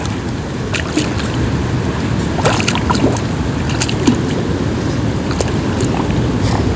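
Rain on a lake: a steady wash of noise with scattered sharp ticks of individual drops landing close by.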